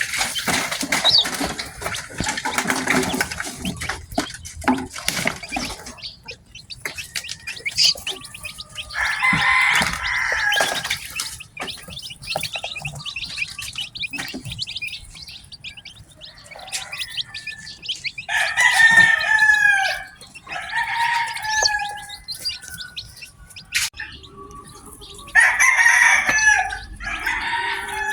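Newly hatched chicks peeping, with a dense rustling in the first six seconds and then four loud, drawn-out chicken calls of a second or two each.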